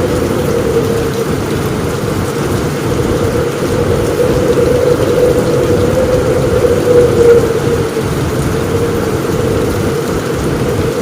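Steady heavy rain on a roof, a dense, low-weighted rush with no single thunderclap standing out.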